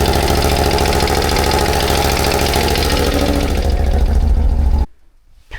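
CFMOTO CForce 1000's 2V91Y V-twin engine idling steadily with a knock that is still there after the valve clearances were adjusted; its cause is not yet found. The sound cuts off abruptly about five seconds in.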